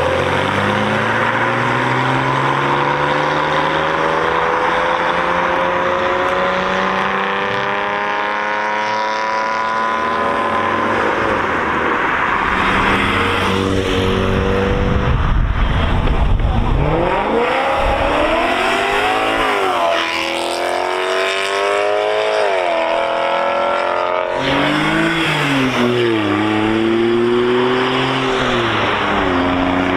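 BMW M car engine pulling hard, its pitch climbing steadily for about ten seconds. After that it revs up and down several times, about one rise and fall every two seconds.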